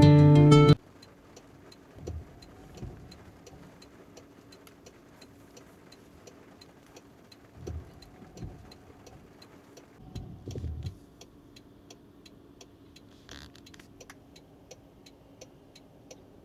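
Car turn-signal indicator ticking steadily inside the cabin, about two ticks a second, with a few low dull thuds and a faint steady hum. Background guitar music cuts off within the first second.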